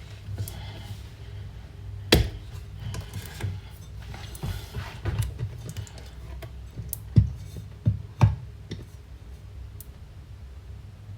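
Kitchen handling sounds: scattered sharp knocks and clinks, loudest once about two seconds in and three times in quick succession near the end, over a steady low hum.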